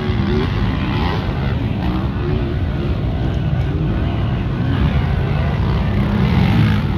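Motocross bike engines running, their pitch wavering up and down with the throttle.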